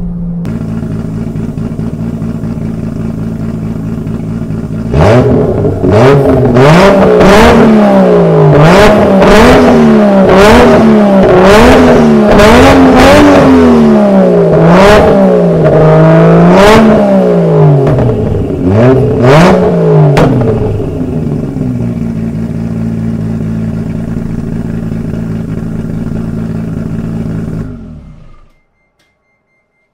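Nissan R33 GTR's RB26 twin-turbo straight-six through a Tomei titanium exhaust, idling and then revved in about a dozen quick throttle blips, with a sharp crackle at many of them. It settles back to idle, and the sound stops near the end.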